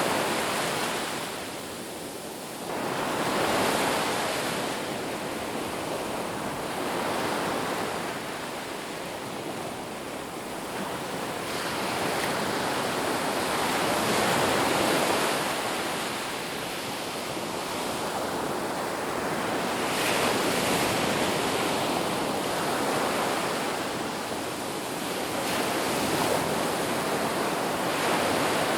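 Ocean surf washing onto a beach, a steady rush that swells and eases every few seconds as waves break and draw back.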